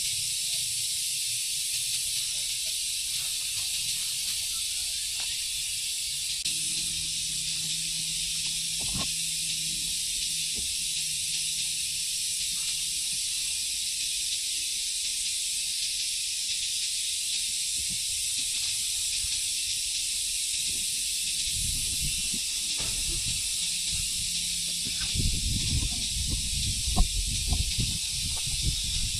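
A steady high hiss, with a few knocks and thumps in the last few seconds.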